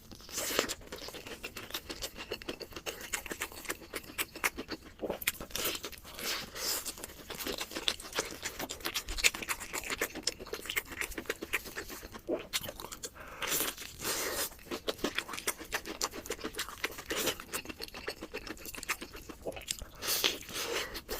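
Close-miked chewing of crunchy food: a run of irregular crisp crunches and mouth sounds.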